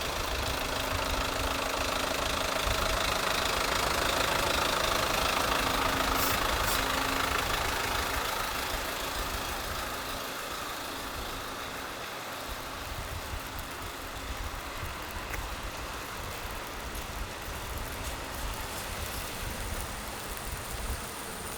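A motor vehicle's engine running close by on a city street, growing a little louder over the first few seconds and then fading to a steady background hum.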